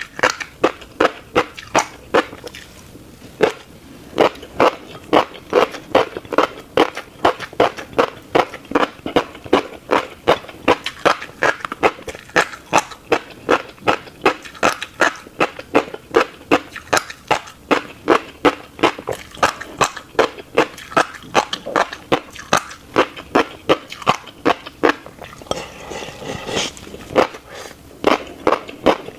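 Close-miked chewing of a mouthful of tiny black seeds: an even run of wet, clicky chews, about three a second.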